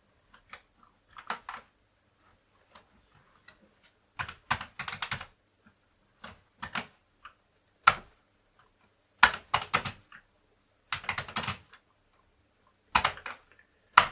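Keys being typed on a Commodore 64 keyboard in irregular bursts of clicky keystrokes with short pauses between them, testing the keys after the keyboard repair.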